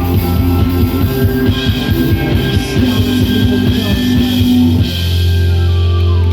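Live rock band with electric guitars and drum kit playing. About five seconds in, the drumming stops and a final held chord rings out, closing the song.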